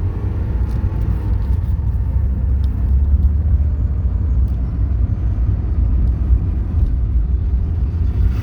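A 1983 Porsche 944's 2.5-litre four-cylinder engine pulls the car away in first gear, heard from inside the cabin as a steady low rumble with road noise.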